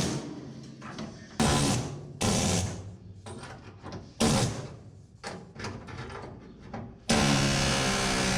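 Short bursts from a handheld sheet-metal cutting tool being tried out: three sharp loud bursts, each fading out, with smaller bursts between. About seven seconds in, a loud steady low-pitched machine drone starts and keeps going.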